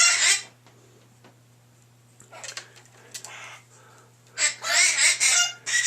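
Pet bird chattering and squawking, noisy: a short loud call at the start, softer scratchy sounds in the middle, then a loud run of high, warbling speech-like squawks near the end.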